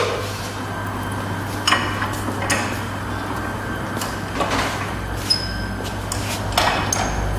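Irregular metallic clicks and clunks, about half a dozen, from a cold Ruston Hornsby 4 HP stationary engine being worked by hand to pull fuel through before starting, over a steady low hum.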